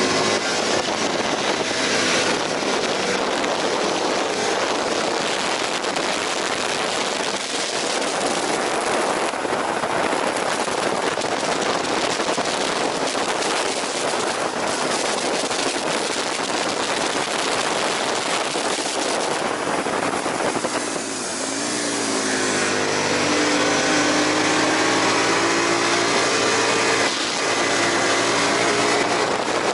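Aprilia RSV 1000 Factory V-twin engine at speed on a racetrack, largely covered by rushing wind for about twenty seconds. About twenty seconds in, the engine note drops as the bike slows, then pulls again with its pitch rising slowly.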